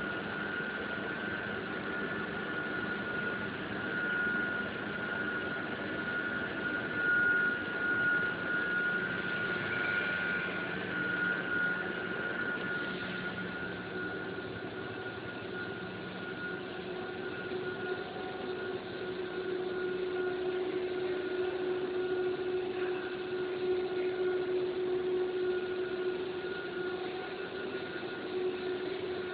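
PVC/WPC profile extrusion line running: a steady machine sound with a high whine, and a lower hum that grows stronger about halfway through.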